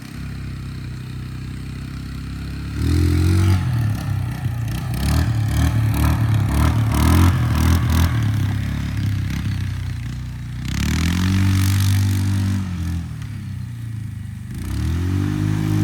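Motorcycle engine running at a low idle, then revving up hard in bursts about three seconds in, again near eleven seconds and once more near the end, with rattling and clattering between the revs as the throttle is worked for wheelies.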